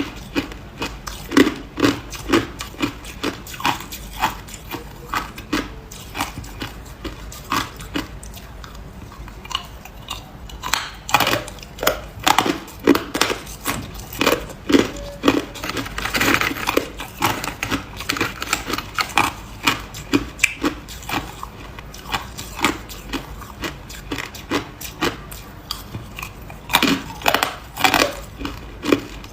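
A person biting and chewing hard ice close to the microphone: a fast, irregular run of sharp crunches, about two a second, with denser grinding clusters in the middle and near the end.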